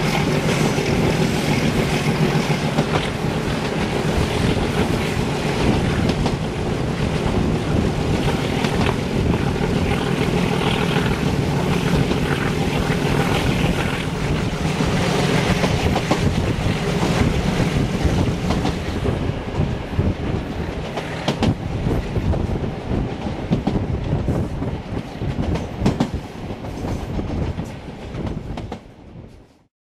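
Train running noise heard from aboard a metre-gauge passenger coach: a steady rumble of wheels on rail with repeated clicks over the rail joints, while a broad-gauge express runs alongside on the next line. The sound fades out near the end.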